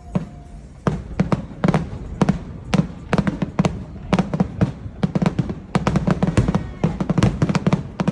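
Fireworks going off in rapid, irregular succession: many sharp bangs and crackles, several a second.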